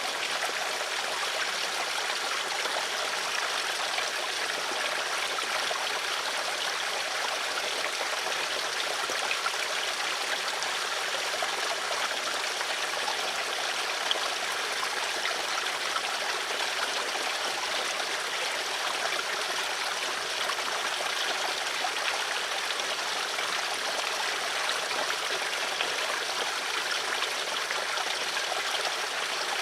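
Flowing water, like a stream, running steadily as an even rushing hiss.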